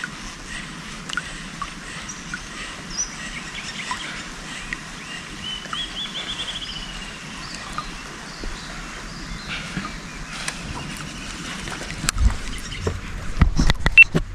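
Wild birds calling and chirping from the riverside forest, with a trilled run of quick notes around the middle. A few sharp knocks come near the end.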